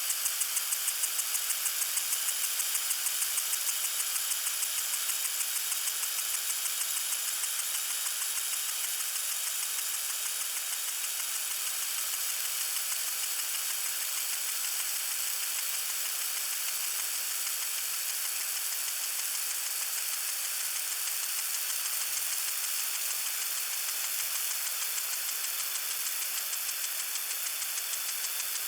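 Water sprinkler spraying: a steady hiss of water with a fast, even pulsing running through it.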